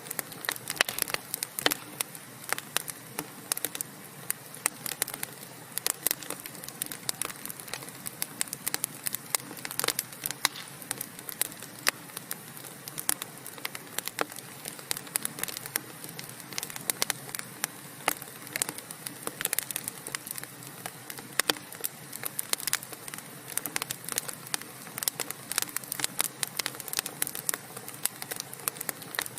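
Wood logs burning in a fireplace: a dense, irregular crackling of sharp pops and snaps over a soft steady hiss of the flames.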